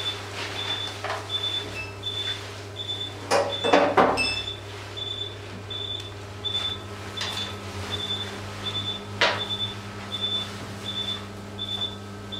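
Patient monitor's pulse beep sounding evenly about twice a second over a steady equipment hum, each beep following the anaesthetised dog's heartbeat. A few clinks and knocks of instruments come about three to four seconds in and again near nine seconds.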